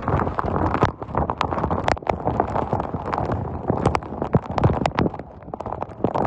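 Irregular sharp taps, several a second, of storm rain or hail striking a hard surface, over the noise of the storm.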